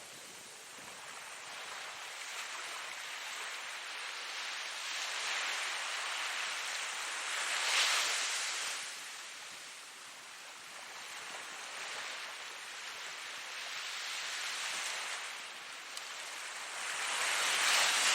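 Ocean waves breaking and washing in, a steady surf hiss that swells to a peak about eight seconds in and again near the end.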